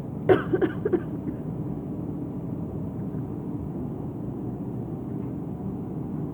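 Steady running hum of a clothes dryer, with a few short, sharp sounds just under a second in.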